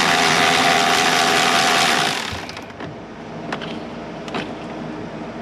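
A cordless power tool runs at speed for about two seconds, spinning out a 10 mm bolt, then stops. A couple of light clicks follow.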